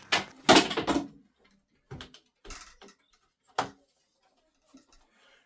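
Sharp clicks and knocks of hand work on a uPVC window frame: a quick cluster in the first second, then a few single knocks spaced about a second apart.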